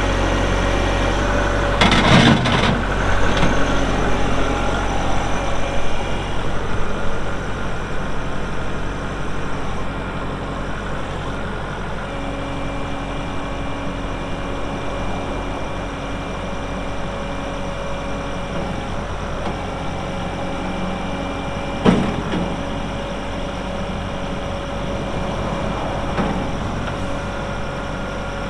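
Kubota MX6000 compact tractor's diesel engine running steadily, with a couple of sharp clunks, about two seconds in and again near the end.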